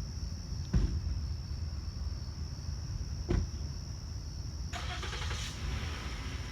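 Low, continuous thunder rumble with two short sharp cracks, one about a second in and one near the middle, and a brief hiss about five seconds in. A steady high-pitched insect trill runs underneath.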